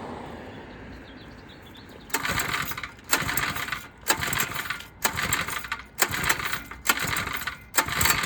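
A fading hum, then from about two seconds in a small engine's recoil starter is yanked over and over, about once a second, each pull a rattling metallic burst, with the engine not catching: a small engine that won't start.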